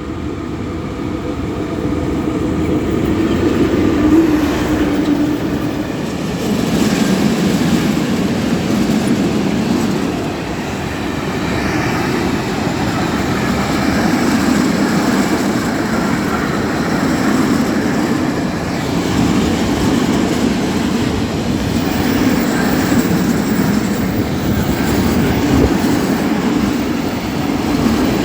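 Locomotive-hauled passenger train of coaches running past, a continuous rumble of wheels on the rails that swells in the first few seconds.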